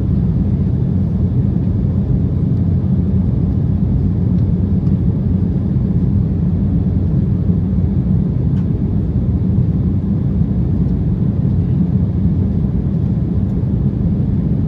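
Cabin noise of an Embraer E190 airliner in flight: the steady low rumble of its GE CF34 turbofan engines and airflow as heard inside the cabin.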